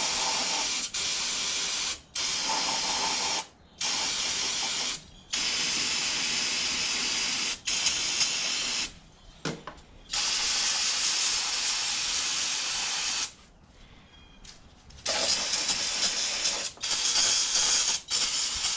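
Aerosol spray can being sprayed in repeated bursts of one to three seconds each, with short breaks between them and one longer pause near the middle.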